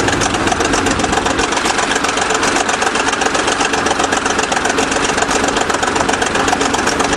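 20-ton bulldozer's diesel engine running steadily, with a fast, even beat.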